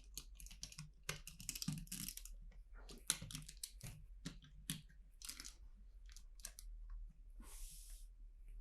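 LEGO plastic pieces handled and pressed together: a run of faint, irregular clicks and crunches.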